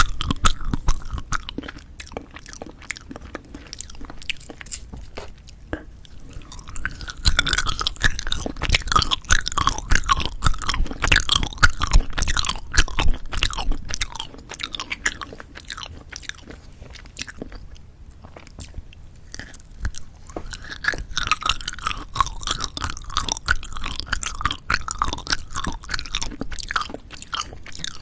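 Close-miked chewing of jelly candy: dense wet clicks and crunches. The chewing grows busier about seven seconds in and again about twenty seconds in, with lighter chewing between.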